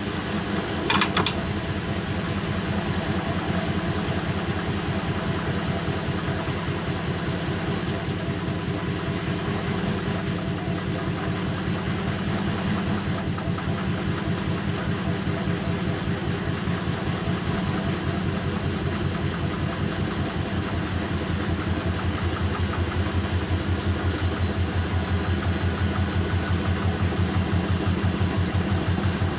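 Bosch WAN28220FF washing machine running a synthetics 40 cycle: a steady motor hum with a fast even pulse, getting somewhat louder over the last several seconds. A short click about a second in.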